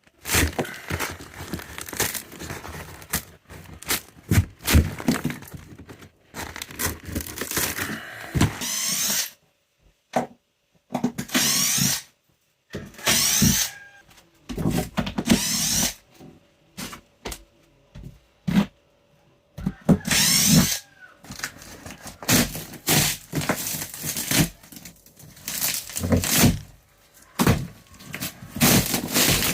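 Renovation work on a wooden floor: repeated knocks, scrapes and clatter on boards, broken by a few short runs of a power drill or driver, each about a second long.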